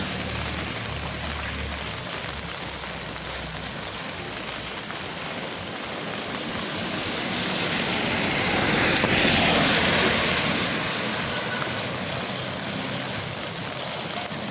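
Heavy rain falling steadily. A vehicle passes on the wet road: its tyre hiss swells to a peak about nine seconds in, then fades.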